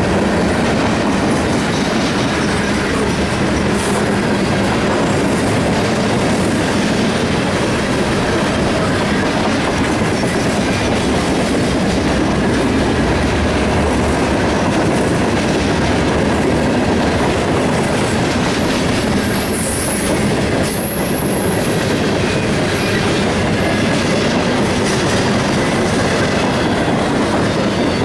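CSX freight train rolling past on the rails, a steady loud rumble and clatter of wheels on track. About two-thirds of the way through, wheels squeal briefly at a high pitch.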